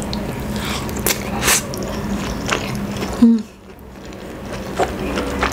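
Close-miked chewing of a mouthful of tender braised pork leg with rice: soft, wet mouth sounds with a few sharp clicks, and a short low hum a little after three seconds in.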